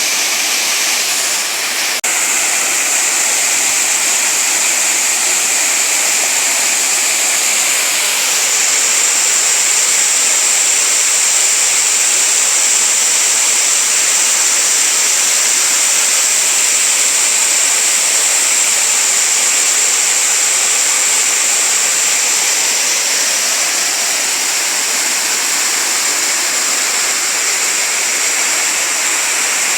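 Waterfall: water falling and rushing in a steady, even hiss that does not let up.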